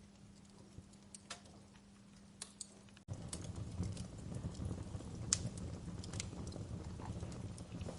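Wood fire crackling, with scattered sharp pops. About three seconds in the sound cuts abruptly to a louder fire, with a low rumble of flames under more frequent crackles.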